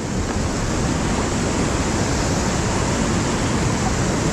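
Steady rushing noise of river water around a moving raft, mixed with wind buffeting the microphone.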